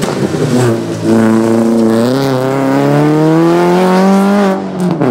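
Peugeot 206 XS rally car engine under hard acceleration as the car drives past and away. The engine note dips about a second in, then rises steadily for about three seconds before dropping sharply near the end as the driver shifts up.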